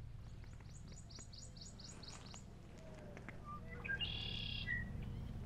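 Songbirds singing: a rapid series of about ten high repeated notes over the first two and a half seconds, then a longer held note about four seconds in, with a few small chirps between, over a low steady rumble.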